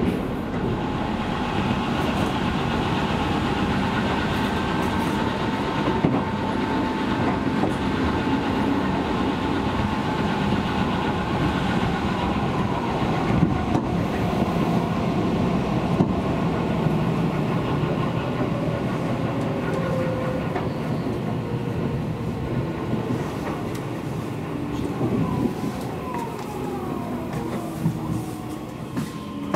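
Seibu Railway electric train running along the line: steady rumble of wheels on rail, with a few sharp clacks over rail joints. It grows a little quieter near the end.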